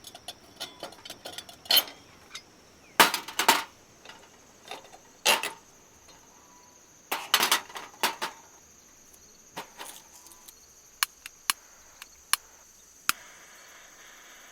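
Irregular knocks and clinks of hard objects being handled, some in quick clusters and a few single sharp ticks near the end, over a steady high insect drone.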